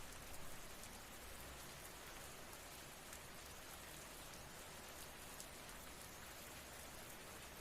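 Faint, steady rain: an even hiss of falling rain with scattered soft drop ticks.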